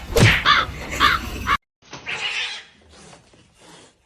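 An animal calling: several short, harsh calls in about the first second and a half, then the sound cuts off suddenly and a quieter, noisier stretch follows.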